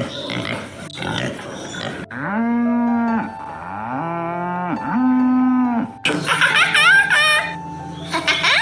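Cattle mooing: three long, drawn-out moos, each rising at the start and holding a steady pitch. A run of high, quickly rising calls follows near the end.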